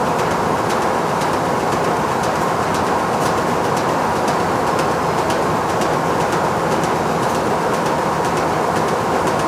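Factory machinery running with a steady, dense din, a band of hum near the middle of the range and faint scattered ticks over it.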